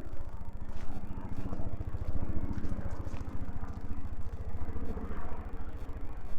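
A motor vehicle's engine running with a steady, low, pulsing rumble.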